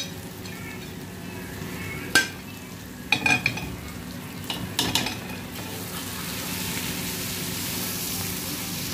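Onions, tomato and freshly added ground spices sizzling in oil in a nonstick pot while a metal spoon stirs them, knocking against the pot a few times around two, three and five seconds in. The sizzle grows louder in the second half.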